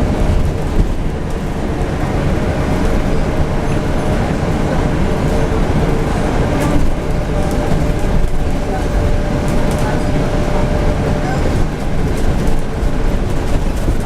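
Scania N250UD double-decker bus running, a steady diesel engine and road rumble, with a faint whine holding one pitch through the middle.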